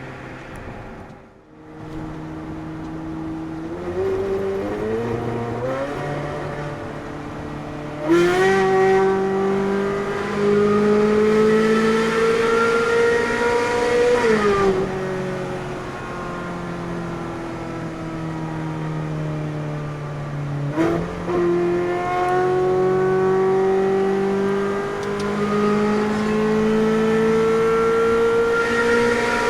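Ferrari 458 Spider's naturally aspirated V8 under way, pulling with its pitch climbing steadily, then off the throttle about halfway through with the pitch sinking. A sharp blip comes about two-thirds in, and then it pulls again with the pitch rising.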